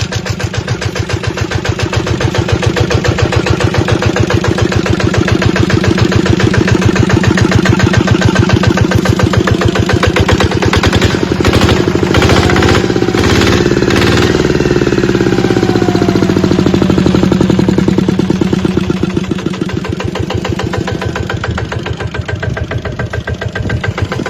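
Kubota RT100DI single-cylinder diesel engine of a walking tractor running, with an even, fast firing beat. Its speed shifts around the middle, with a few sharp knocks, and it runs quieter near the end.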